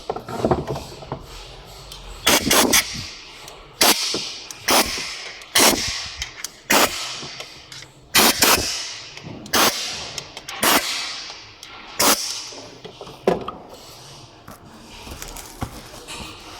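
A series of about a dozen sharp knocks, roughly one a second and some in quick pairs, each dying away briefly.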